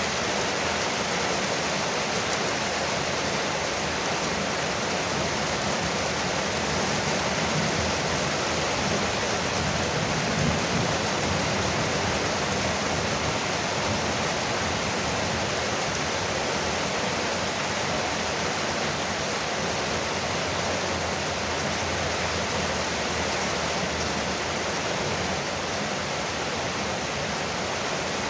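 Rain falling steadily on a porch roof, an even, unbroken hiss.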